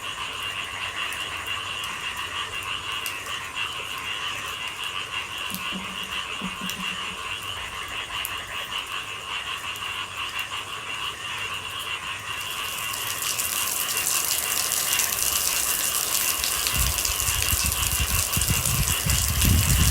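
A frog chorus croaking steadily. Rain comes in about two-thirds of the way through as a rising hiss, and low rumbling surges join it near the end.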